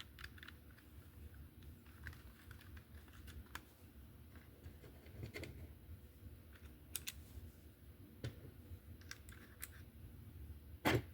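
Faint, scattered clicks and taps of a plastic slot car body and chassis being handled and fitted back together, with one louder click near the end.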